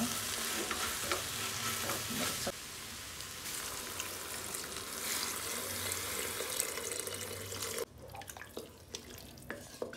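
Chopped taro flowers sizzling in hot oil in a pressure cooker as a wooden spatula scrapes and stirs them. A few seconds in, water is poured over them, the sizzling dies down, and the stirring goes on more quietly in the liquid.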